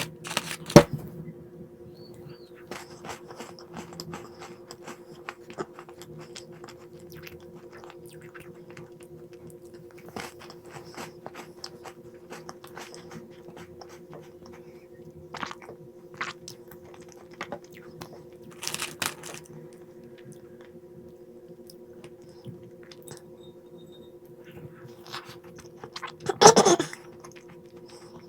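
Crunchy snacks being bitten and chewed close to the microphone: a run of small crisp crunches, with a sharp click about a second in and louder bursts of crunching about two-thirds of the way through and near the end. A steady low hum runs underneath.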